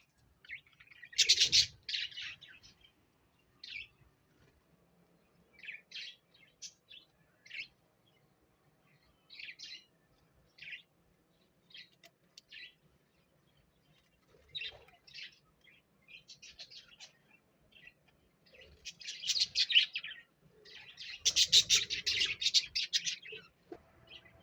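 Pet parrot chirping: scattered short, high chirps, with louder bursts of rapid chattering about a second in and again near the end.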